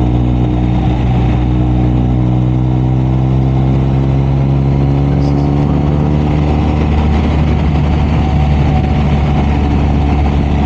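BMW R 1250 RS's 1254 cc boxer twin running under way at a steady cruising pace, its engine note easing slightly in pitch over the first few seconds and then holding, over a steady rush of wind and road noise.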